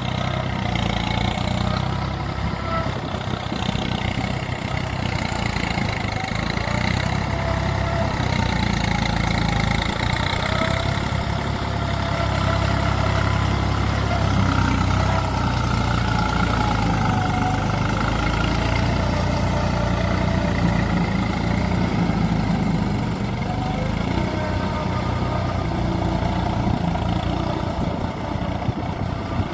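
Tractor engine running steadily, its low rumble rising a little in the middle and easing back near the end.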